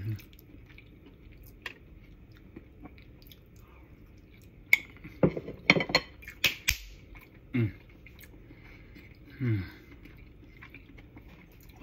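A person chewing a soft mouthful of casserole, with wet mouth clicks and lip smacks that come thickest about five to seven seconds in. Twice near the end comes a short vocal 'mm' that falls in pitch.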